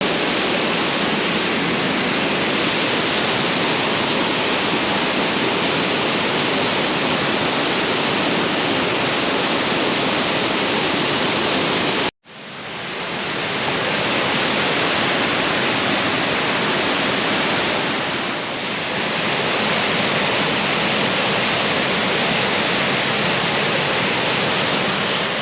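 Steady rushing of water pouring over rocks in a waterfall. About halfway through it cuts out abruptly and fades back in over a second or so, an edit between two shots.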